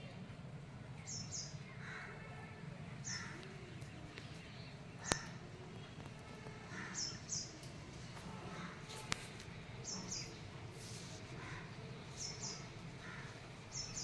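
Birds calling: crow caws among short, high chirps that come every second or two, often in pairs, over a steady low rumble. Two sharp clicks stand out, about five and nine seconds in, the first the loudest sound.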